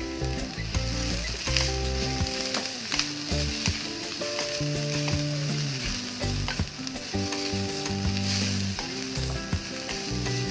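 Sliced onions and chopped garlic sizzling in hot olive oil in a wok, with a steady frying hiss. A wooden spatula stirring them scrapes and clicks against the pan.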